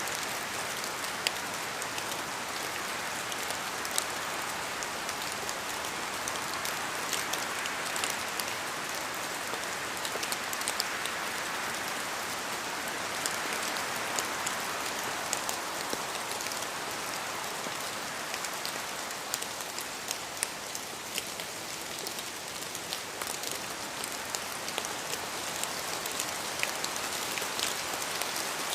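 Steady rain falling in a forest, an even hiss with many individual drops tapping sharply from the trees.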